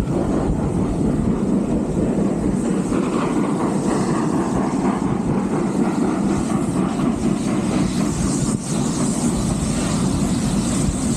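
Steam-hauled heritage train running along the line: a steady low rumble of the carriage wheels on the track.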